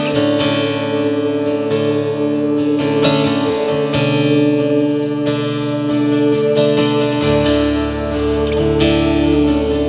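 Acoustic guitar strummed in a steady rhythm, playing an instrumental passage of a worship song between sung lines, with a low bass note joining about seven seconds in.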